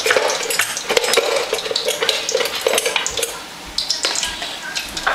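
Plantain pieces frying in a pot of oil on medium-high heat: steady crackling and popping, with a few clinks of kitchenware.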